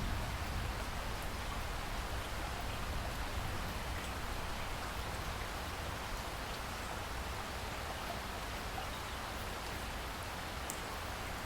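Steady rain falling, an even hiss with a low rumble beneath it and the odd faint drip tick.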